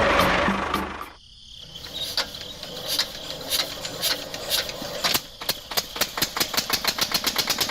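A rapid series of sharp mechanical clicks. They start irregular about two seconds in, then become an even rattle that speeds up to roughly six to eight clicks a second.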